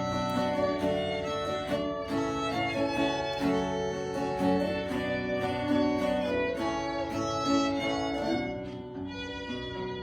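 Instrumental close of a folk ballad: fiddle playing the melody over acoustic guitar, dying down near the end.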